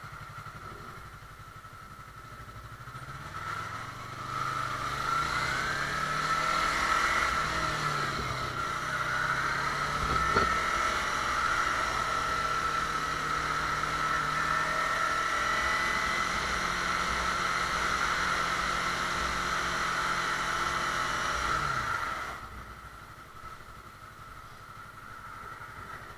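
Motorcycle engine running while riding, its pitch rising and falling as the rider speeds up and slows. The engine sound grows louder a few seconds in and drops away near the end.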